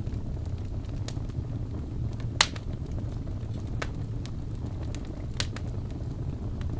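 Wood fire burning in a fireplace: a steady low rumble of the flames with scattered sharp crackles and pops from the burning wood, the loudest pop about two and a half seconds in.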